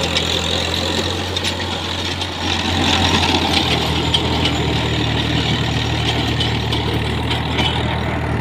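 Massey Ferguson 7250 tractor's diesel engine running steadily under load, its note rising and getting louder about three seconds in.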